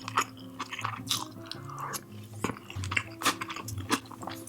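Close-miked chewing of a mouthful of chicken biryani rice, with many short, irregular wet mouth clicks and smacks.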